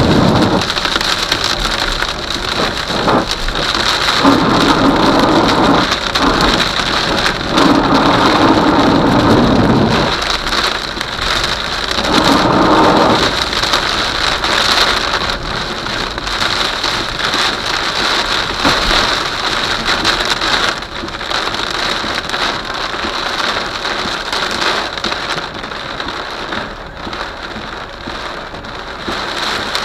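Heavy rain falling in a thunderstorm, with louder rumbles of thunder during roughly the first dozen seconds. After that the steady rain goes on alone, easing slightly toward the end.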